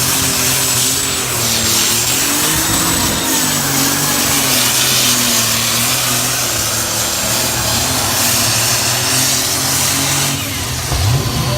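Pulling vehicle's engine running hard at high revs during a pull, its note wavering under a heavy high hiss. Near the end a second engine revs up with a rising pitch.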